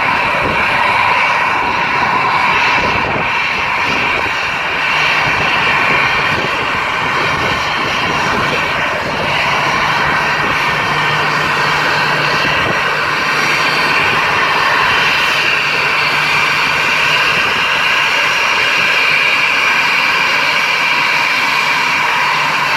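Jet airliner engines running at high thrust close by, producing jet blast: a loud, steady noise with a high whining tone. A low hum joins about five seconds in.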